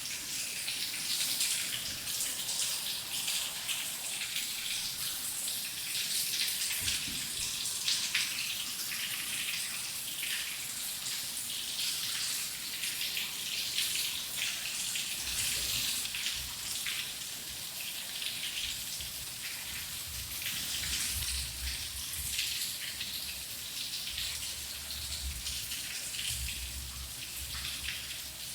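Rain falling steadily, a dense hiss of drops pattering. A faint low rumble joins about halfway through.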